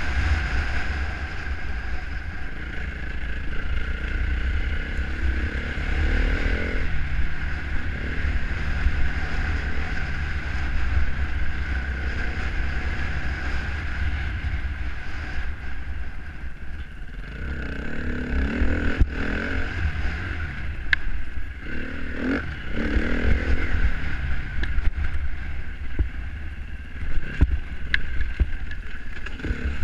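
Dirt bike engine running on a trail ride, its pitch rising and falling a few times as the throttle is worked, over a constant low rumble.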